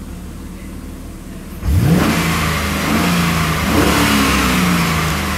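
Holden Commodore 6.0-litre L98 V8 idling, then revved sharply about a second and a half in and held high, near 4,000 rpm, easing slightly near the end.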